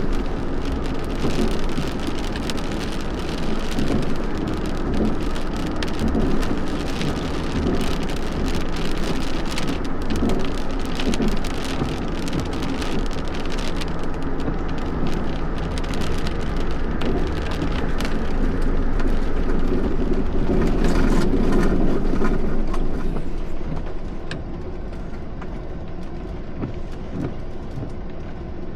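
Heavy rain drumming on a hard surface, with many close drop hits over a steady low rumble. It swells about three-quarters of the way through, then eases off and sounds duller.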